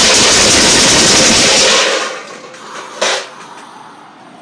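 Explosion sound: a loud, dense crackling blast of noise that cuts off abruptly about two seconds in. About a second later comes a single sharp crack, then a faint hiss.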